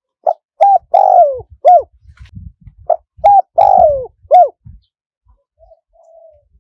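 Spotted dove cooing: two four-note phrases, each with a long, falling third note, followed by a faint soft coo near the end.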